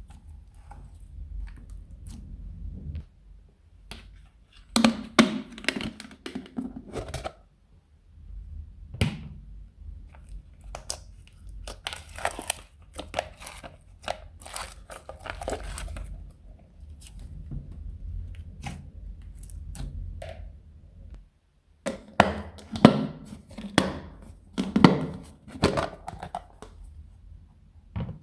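Hands squishing, stretching and folding slime: irregular bunches of sticky clicks and crackles, with a couple of short lulls.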